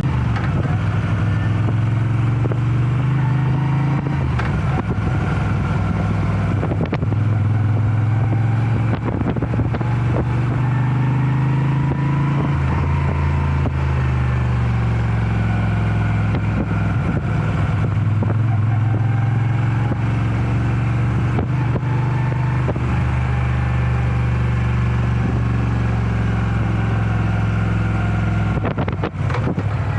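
Moto Guzzi V7 Special's air-cooled transverse V-twin running under way as the motorcycle is ridden, its note rising and falling in pitch with the throttle.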